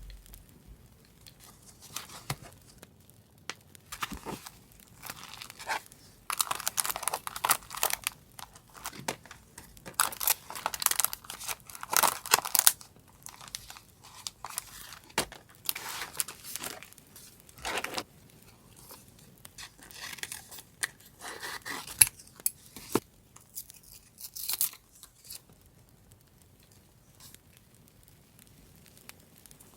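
Paper being torn and crinkled by hand in irregular bursts, densest and loudest from about six to thirteen seconds in, with scattered sharp snaps after.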